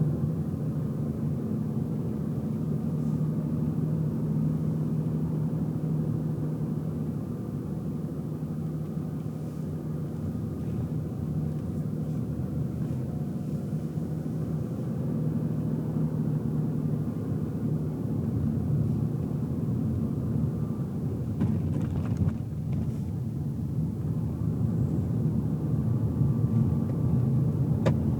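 Car driving, heard from inside the cabin: a steady low engine and road rumble, with a few faint clicks about three-quarters of the way through.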